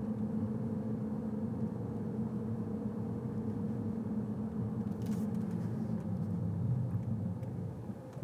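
Steady low hum of a car on the move, heard from inside the cabin: engine and road noise with a constant drone. A brief faint click about five seconds in.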